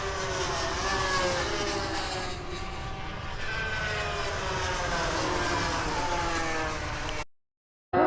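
Distant engine drone whose pitch slowly slides down and back up over a low rumble. It cuts off abruptly near the end.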